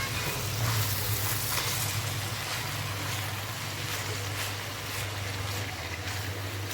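Chopped vegetables, onion, peppers and zucchini, sizzling as they sauté in oil in a pan: a steady hiss with light crackles, over a steady low hum.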